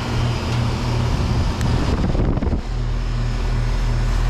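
2011 Luxaire LX Series (THJ) 3-ton heat pump running in heat mode shortly after start-up: its Bristol reciprocating compressor and outdoor fan give a steady hum. About two seconds in, a brief low rumble covers the hum for under a second.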